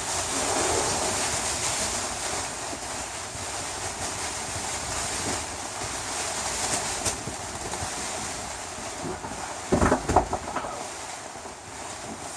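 Strong wind and rain: a steady rushing noise, with wind buffeting the microphone in a short burst of rumbles about ten seconds in.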